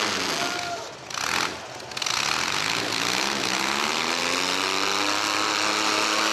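Engines of demolition derby mini trucks revving, several engine pitches rising and falling over one another. The engines dip about a second in, and a short noisy burst cuts through.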